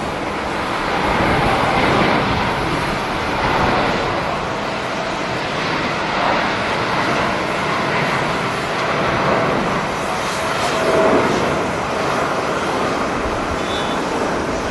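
Jet airliner engine noise: a steady rushing that swells and eases, with gusts of wind buffeting the microphone.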